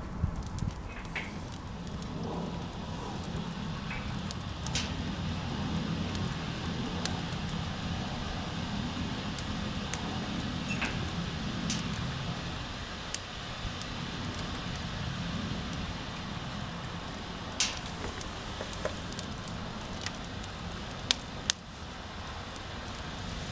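Wood fire burning in a washing-machine-drum fire pit: scattered sharp crackles and pops, the loudest few near the end, over a steady low rumble.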